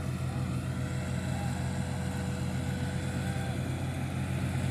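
Massey Ferguson 260 tractor's diesel engine running steadily with an even throb.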